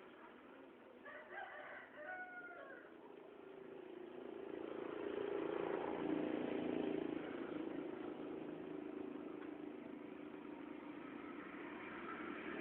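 A rooster crows once, about a second in, then a passing motor vehicle's engine noise swells and fades, loudest around the middle.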